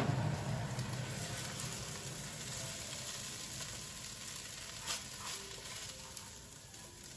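Fried rice sizzling in a hot pan, slowly dying down, with a light click about five seconds in.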